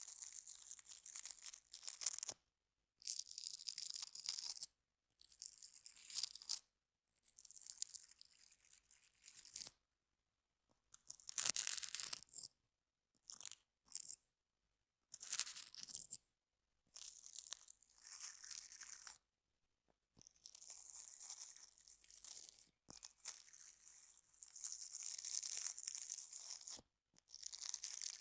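Small objects scraped and brushed directly across a microphone: a series of crisp, scratchy strokes, each a second or two long, with dead silence between them. One stroke near the middle is louder and fuller than the rest.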